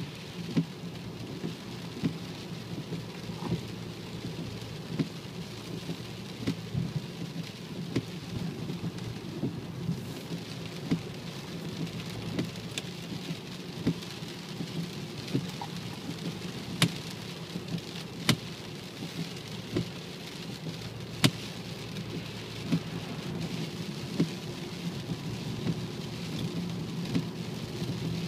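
Cabin noise of a BMW 535d on the move: a steady low rumble with scattered sharp ticks, and a faint steady whine above it, the kind of whine the owner suspects comes from the gearbox.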